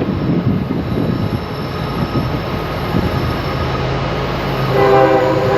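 Train running on the rails with a steady rumble. Near the end a steady pitched tone with several overtones sets in over it.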